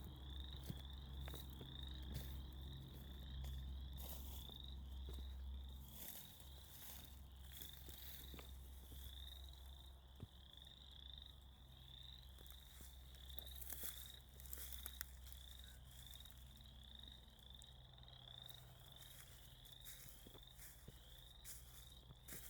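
A chorus of frogs calling: short, high, rising peeps repeated several times a second without a break, with faint clicks and a low rumble underneath.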